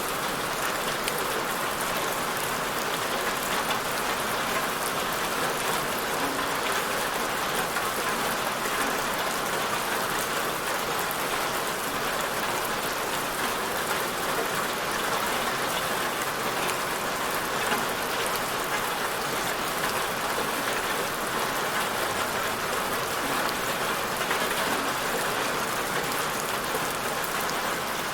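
Steady rain falling, an even hiss of many fine drops with no break.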